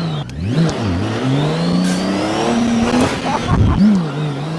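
Motorcycle engine being revved, its pitch falling and climbing with several throttle blips, holding steadier in the middle and giving one sharp blip near the end.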